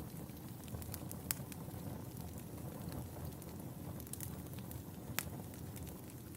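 Wood fire burning in a fireplace: a steady low rumble of flames with scattered sharp crackles and pops, two of them louder, about a second in and about five seconds in.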